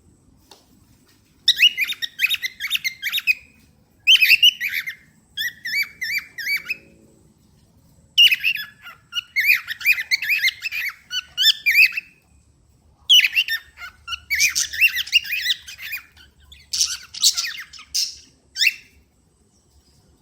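Cockatiel chirping and warbling in several loud bouts of a few seconds each, with short pauses between.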